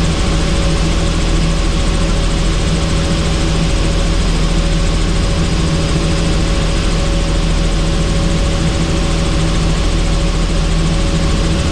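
Helicopter in flight: a steady, loud drone of engine and rotor, with a constant hum over a wide rushing hiss.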